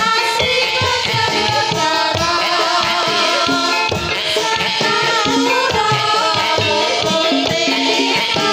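Javanese ebeg (kuda kepang) dance music: hand drums in a quick, busy pattern over sustained, ringing melodic instrument lines, played steadily and loud.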